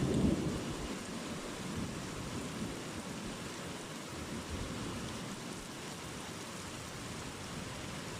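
A roll of thunder dying away in the first second, then steady rain falling.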